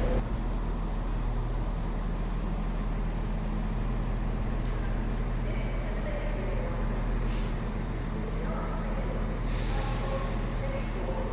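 Diesel train engine idling at a station platform, a steady low hum, with two short hisses about seven and nine and a half seconds in and faint voices in the background.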